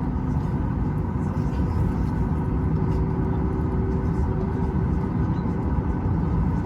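Steady cabin noise of a Boeing 737 MAX 8 with its CFM LEAP-1B engines running, heard from inside the cabin: a continuous deep rumble with faint steady hums above it.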